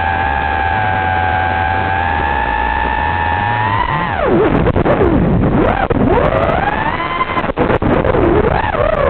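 FPV racing quadcopter's electric motors whining: a steady tone for about four seconds, then the pitch swooping down and up again and again as the throttle is chopped and punched, over a hiss.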